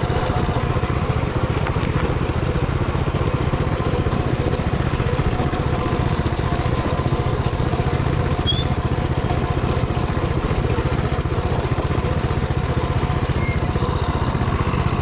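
Coleman mini bike's Predator 224 single-cylinder engine running at a steady, even speed, with no revving.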